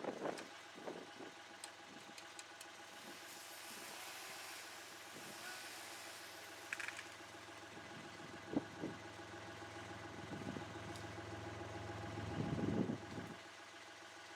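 An engine idling steadily, with a sharp knock partway through and a louder spell shortly before the end.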